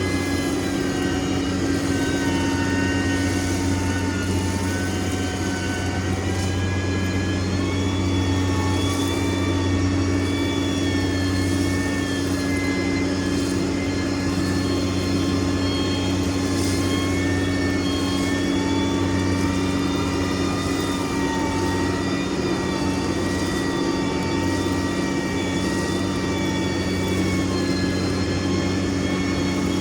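Diesel engine of a heavy earthmoving machine running steadily, a constant low drone with fainter whining tones above that drift slowly up and down in pitch.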